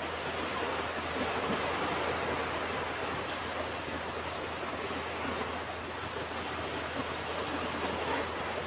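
Ocean surf washing onto a beach: a steady rush of breaking waves that swells and eases gently.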